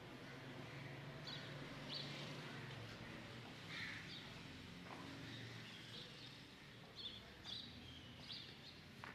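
Faint background ambience with short, high bird chirps scattered through it, over a low steady hum.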